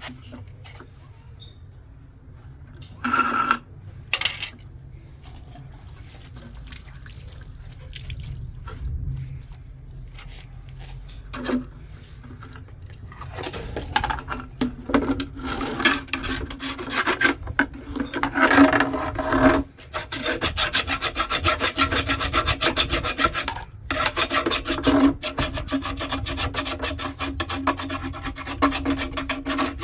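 Washer-dryer drying fan scraping and rasping as it spins, a fast, even, rhythmic rubbing, the sign of the fan fouling on its housing or a blockage. It comes in scattered scrapes at first, builds from about halfway in, and runs continuously near the end with a brief break.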